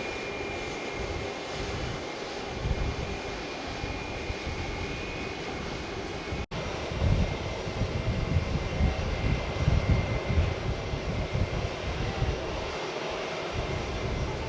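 Jet airliner engines running: a steady whine over a low rumble. The sound cuts out for an instant about six and a half seconds in and comes back with a louder, more uneven rumble.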